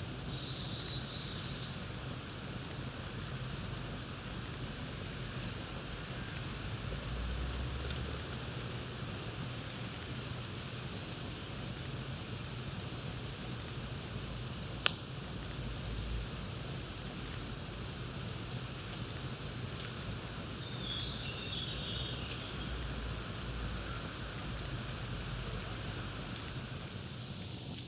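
Campfire crackling: a steady hiss of burning wood with scattered small pops and one sharp, loud pop about halfway through. Faint bird chirps come in briefly in the second half.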